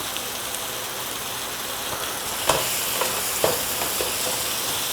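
Onion-tomato masala base sizzling steadily in hot oil in a pot, with two light clicks of the stirring spoon against the pot about two and a half and three and a half seconds in.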